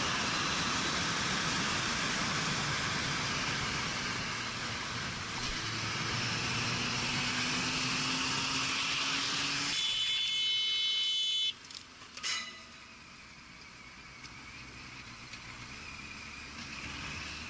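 Car driving noise picked up by a dashcam, with the engine note slowly rising, then a steady high tone for under two seconds. The sound then cuts abruptly to a quieter scene where a single sharp knock is heard.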